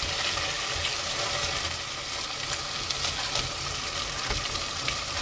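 Diced chicken breast, carrots and mushrooms sizzling as they fry in a stainless steel pot, with a spatula stirring and now and then scraping or tapping against the pot.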